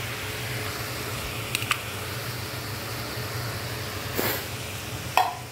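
Diced chicken sizzling in a hot frying pan: a steady hiss over a low hum, with a few light clicks and a brief louder flare about four seconds in as the cream soup goes in.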